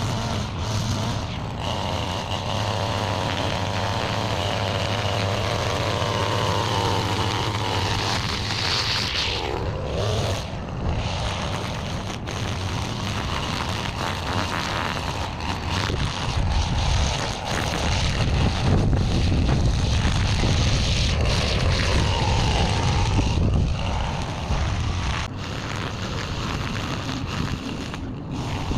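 Small petrol engine running steadily, its pitch rising and falling a couple of times as it is throttled.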